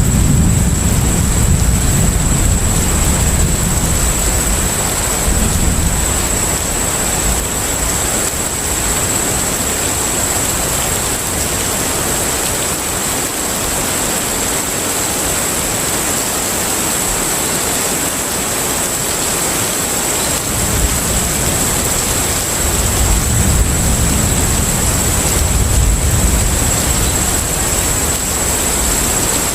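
Container ship at sea ambience: a steady rushing noise of wind and water with a thin high whine held throughout. A deep engine-like rumble fades away early on and swells back up about two-thirds of the way through.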